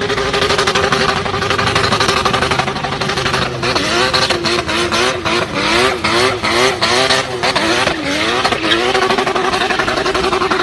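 Toyota Supra's turbocharged straight-six idling, then given a run of quick throttle blips, its pitch jumping up and falling back over and over, with sharp cracks among the blips, before it settles back to a steady idle near the end.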